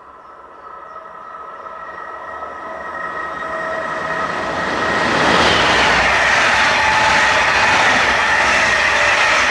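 DB class 146 electric locomotive hauling double-deck regional coaches through the station at speed. It grows steadily louder over the first five seconds as it approaches, then passes loud and steady, a rushing rumble of wheels on rail with a high steady tone.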